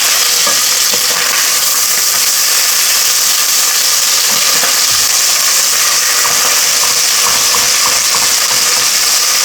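Chicken pieces sizzling steadily in hot oil in a pot as they brown, with small pops and crackles of spattering fat.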